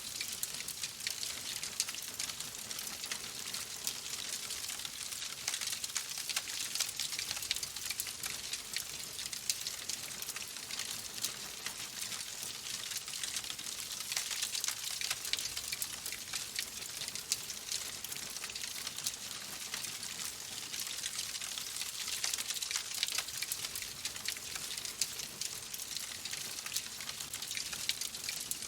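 Fire crackling steadily in a fireplace: a dense run of fine crackles with frequent sharper pops.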